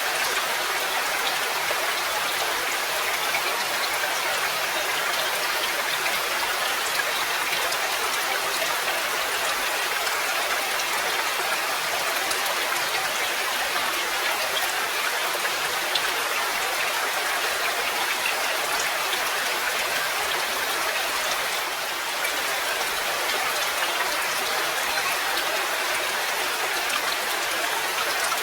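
Steady rain falling: an even hiss with a dense patter of fine drops.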